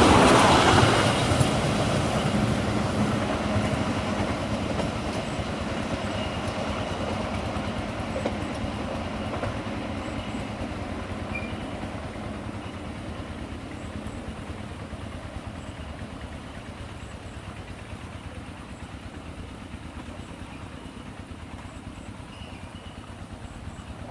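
A train's rumble and wheel noise on the rails fading steadily as it runs away into the distance.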